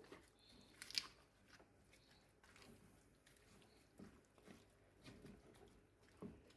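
Faint stirring of seasoned meat in a pot with a turning stick: soft scrapes and light knocks, with one sharper click about a second in.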